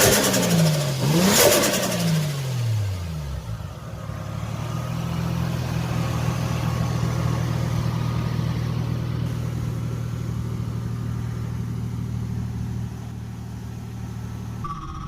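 Toyota 1JZ-GTE VVT-i turbocharged inline-six revved twice in quick blips, with a chattering turbo flutter at the top of each blip. The revs then fall away and the engine settles to a steady idle.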